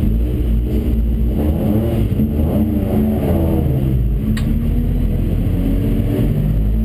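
BMW rallycross car's engine idling, heard from inside the cockpit, with a brief rise in revs about three seconds in. A single sharp click comes about four and a half seconds in.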